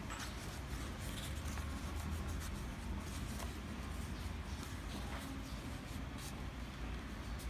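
A sheet of paper being handled and folded by hand, with soft crinkles and scattered light taps, over a low steady background rumble.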